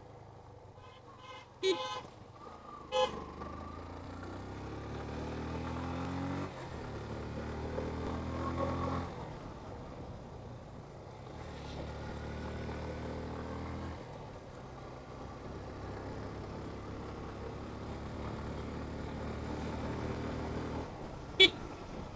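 Yamaha FZ motorcycle engine pulling up through the gears. Its pitch climbs and then drops at each shift, about six, nine and fourteen seconds in. Three short vehicle-horn honks come about two and three seconds in and near the end; the honk near the end is the loudest sound.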